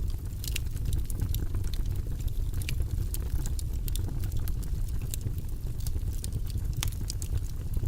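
Wood fire burning in a fireplace: a steady low rumble of flames with frequent sharp, irregular crackles and pops of burning wood.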